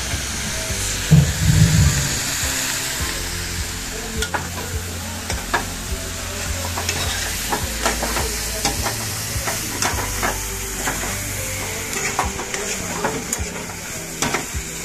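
Masala-coated chicken pieces sizzling in a steel kadai while a steel spoon stirs them, scraping and clicking against the pan from about four seconds in. A heavy low thump about a second in.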